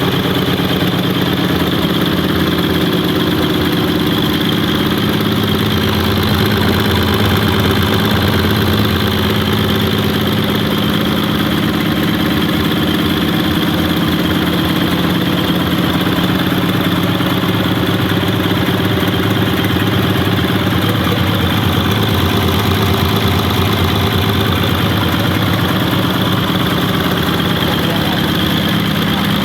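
Hino H07D inline-six diesel bus engine idling steadily.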